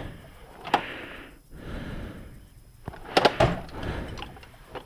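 Rummaging through tools and supplies: rustling and sliding, with a sharp knock about a second in and a quick run of clinks and knocks a little past three seconds.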